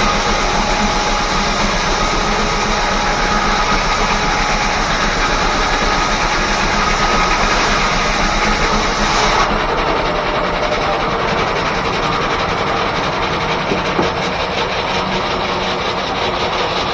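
Steam-driven 1880s R.R. Howell sawmill running: a loud, steady mechanical din with a faint whine, its highest hiss dropping away about halfway through.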